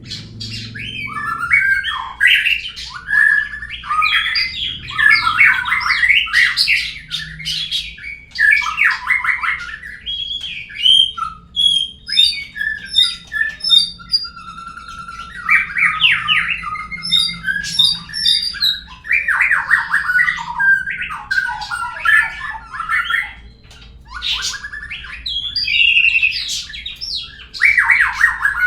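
Murai songbird song used as a lure call to make a murai sing: long, varied runs of quick chirps, whistled notes and harsh squawky notes, broken by short pauses.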